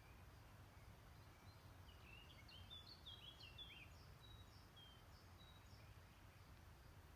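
Faint songbird song: a quick run of short, falling chirps about two seconds in, followed by a few thin high notes. Under it is a steady low rumble of outdoor background noise.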